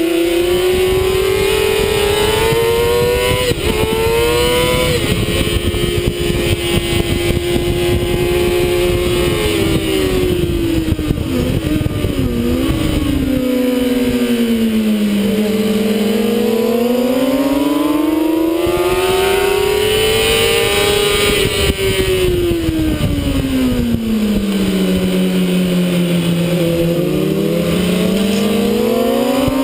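Sport motorcycle engine at high revs heard from an onboard camera, its pitch climbing over the first few seconds, holding, then dropping twice under braking and downshifts and climbing again as it accelerates out of the corners. Heavy wind buffeting on the microphone rumbles underneath.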